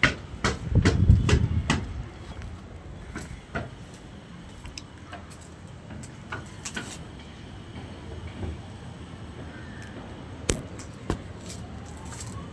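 Irregular knocks and clicks of hand work on fittings and materials, denser at first with a short low rumble about a second in, then occasional sharp ticks.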